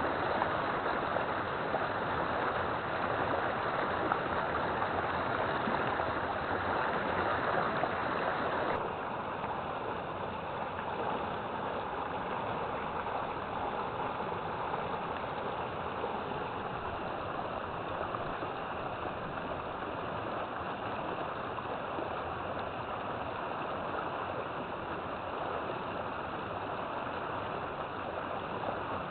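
River water flowing in a steady rush. About nine seconds in it changes abruptly to a slightly quieter, less bright flow.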